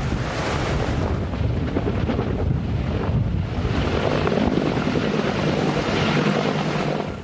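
Strong wind buffeting the microphone: a loud, steady rumbling noise that cuts off abruptly at the very end.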